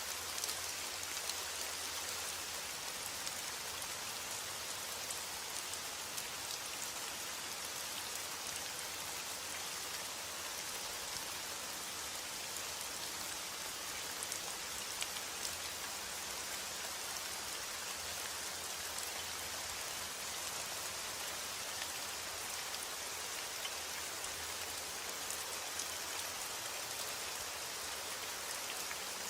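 Steady rainfall, with the patter of many individual drops striking a surface.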